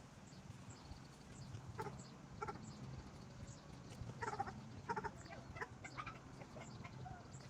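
Farmyard animal calls: a run of short calls, several close together in the middle, over a steady low hum.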